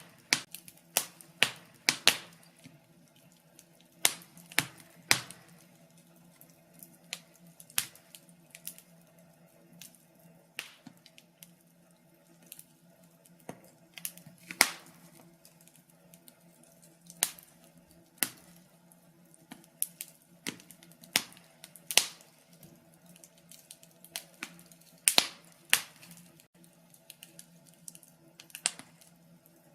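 Wood fire crackling and popping in a fireplace: irregular sharp snaps, several clusters of two or three close together, over a faint steady low hum.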